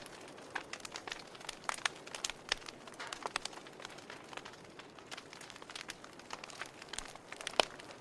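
Wood fire burning in a fireplace: irregular crackles and sharp pops over a soft steady hiss, with one louder pop near the end.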